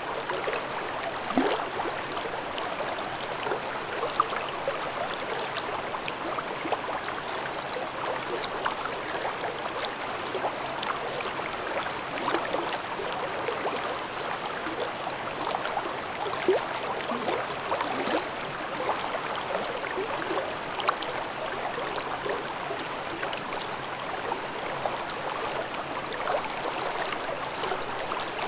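A mountain stream babbling over rocks: a steady rush of water with small gurgles and splashes running through it.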